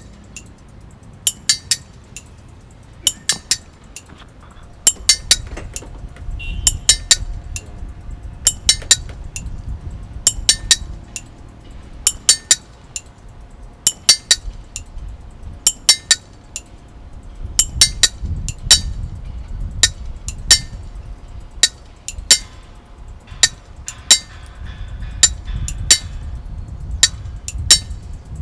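Sound art piece of sharp, bright clinks, like glass or small metal being struck, in quick clusters of two to four every second or two, over a low rumble. A faint steady tone comes in about six seconds in.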